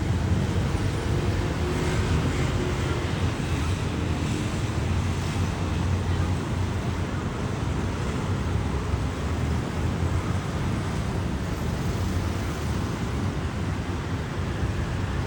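Steady outdoor background rumble with an even hiss, heaviest in the low end, with no distinct events standing out.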